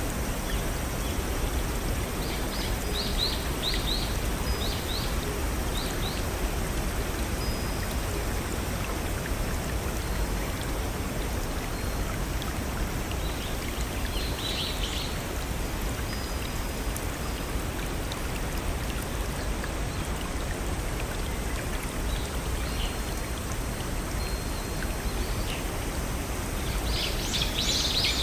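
Steady rush of a small forest waterfall and brook, with birds chirping over it in short runs: a string of chirps a few seconds in, a brief cluster around the middle and a busier burst near the end.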